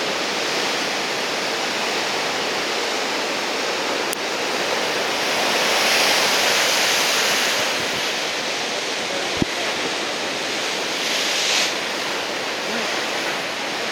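Big typhoon-swell surf breaking on the shore as a steady rushing wash, swelling louder about five to eight seconds in and again briefly near eleven seconds. A single sharp click comes about nine seconds in.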